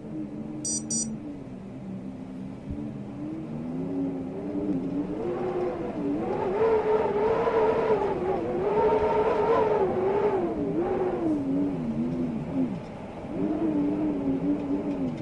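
Storm wind howling, a wavering moan that swells to its loudest in the middle, dies back briefly, then rises again near the end.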